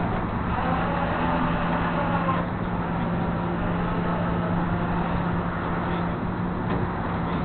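A vehicle engine running steadily, with a constant low hum and no change in speed.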